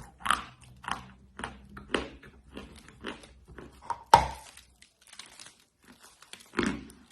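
Dry white clay being bitten and chewed, a run of short crunches about one or two a second, with one sharp, loud crack about four seconds in.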